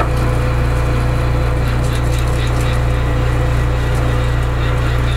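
Metal lathe running at about 225 RPM while a 30 mm drill bit cuts into the workpiece: a steady motor and gear hum with a thin steady whine and even cutting noise.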